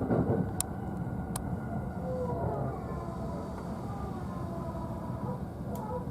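E531 series electric train running and slowing, heard from the upper deck of a double-decker car: steady rumble of wheels on rail, a few sharp clicks in the first second and a half, and a thin whine that falls in pitch as it decelerates.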